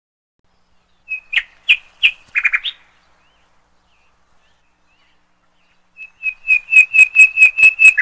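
A songbird singing two phrases. About a second in comes a few clear, high-pitched notes ending in a short buzzy trill. After a pause of about three seconds comes a run of quick repeated notes, about five a second, growing louder.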